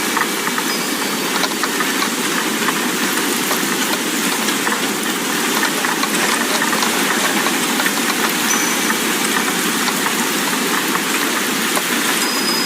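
Steady rushing wind with a few faint high wind-chime notes: one ringing at the start, one about two-thirds through and one near the end.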